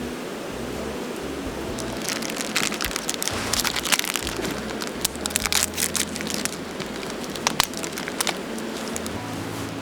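Wood campfire crackling and popping, in a dense flurry of sharp cracks that thins to a few single pops near the end, over a steady hiss.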